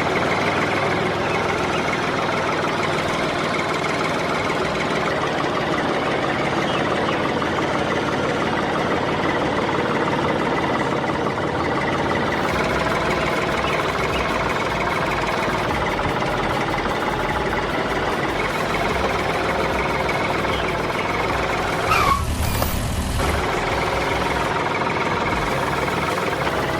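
A motor running steadily with an engine-like sound, with a brief short gliding tone and a low surge near the end.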